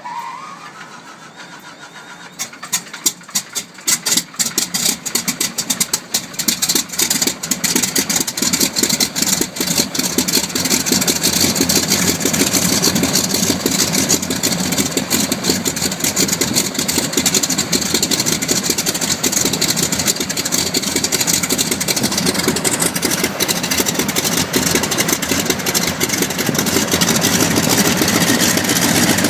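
The right-hand Pratt & Whitney R-985 Wasp Junior nine-cylinder radial engine of a Beechcraft Twin Beech starts up. A brief starter whine is followed by irregular firing as the cylinders catch, about two to four seconds in. The engine then settles into a steady run and grows a little louder later on.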